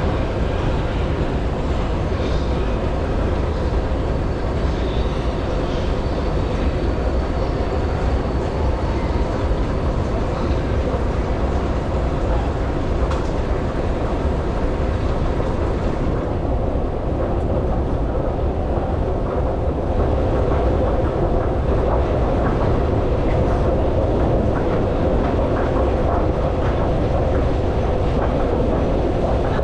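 Budapest Metro M2 train running on its rails: a steady, loud rumble of wheels and carriage that grows somewhat louder about two-thirds of the way through.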